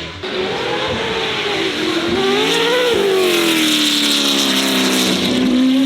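Oilstainlab Half 11's LS V8 engine running under power. Its pitch rises and falls through the first three seconds, then holds steadier and louder.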